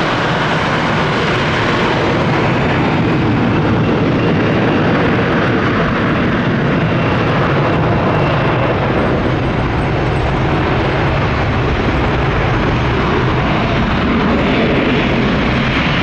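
Steady jet noise from a departing CRJ-900 regional jet's two rear-mounted turbofans at takeoff power.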